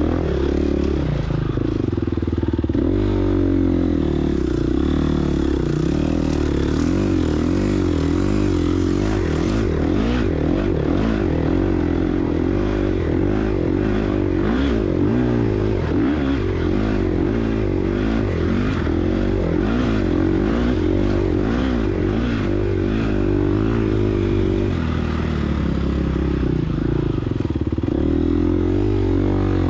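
Gas Gas EX250F four-stroke single-cylinder dirt bike engine under way off-road, its revs rising and falling steadily as the throttle is worked, with clatter and scraping from the bike over rough ground. The engine eases off briefly a little before the end, then picks up again.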